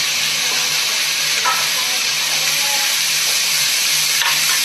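Vegetables stir-frying in a hot wok: a steady sizzle and hiss.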